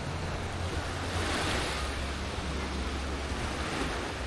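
Black Sea waves washing onto the beach, one wave swelling and breaking about a second and a half in, over a steady low rumble of wind on the microphone.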